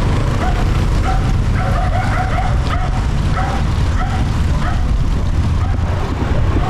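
A dog barking in a quick run of short, repeated barks that fade out after about five seconds, over a steady low rumble of wind on the microphone.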